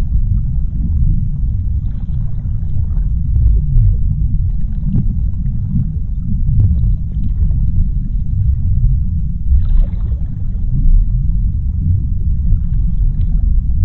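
Underwater ocean ambience: a steady, deep rumble with faint crackling above it.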